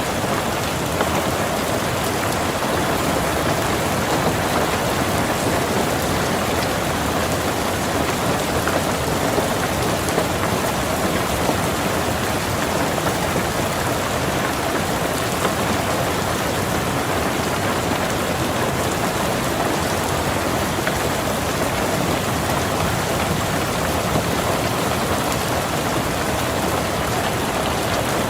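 Steady rain falling on a car's roof and windows, heard from inside the car: an even, unbroken hiss with fine patter of individual drops.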